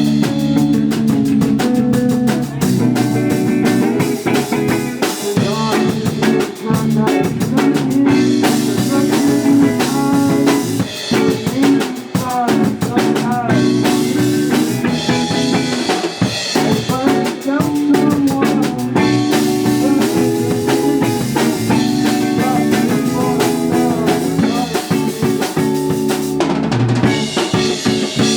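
Live band playing a song: drum kit with snare and bass drum under guitar, loud and steady.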